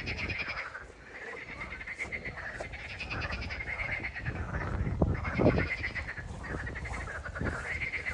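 An animal calling over and over: a run of high, quavering calls, each lasting about half a second to a second, with short gaps between them.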